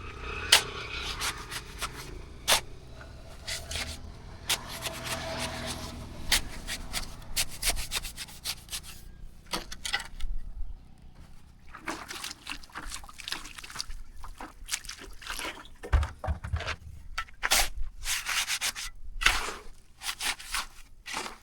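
Irregular scraping and rubbing on a hard surface, broken by many sharp clicks and knocks, with a short lull about ten seconds in.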